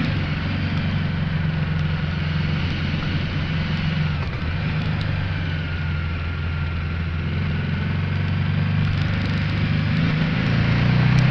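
Ducati Multistrada 1200S's L-twin engine running steadily at low revs on a downhill run, easing off through the middle and pulling harder again near the end, under a constant rush of wind.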